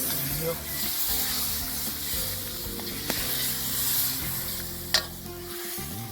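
Crushed tomatoes sizzling in a paella pan over a wood fire while being stirred, with a sharp knock of the utensil against the pan near the start and again about five seconds in.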